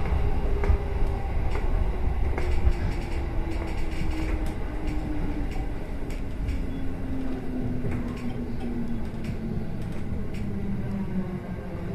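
Electric commuter train braking into a station, heard from the driver's cab: the motor whine falls slowly and steadily in pitch as the train slows, over a low rumble of the wheels on the rails.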